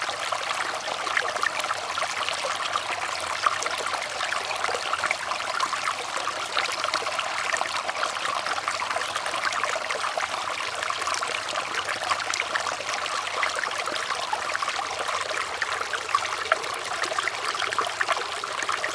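Flowing water trickling steadily, full of small quick splashes.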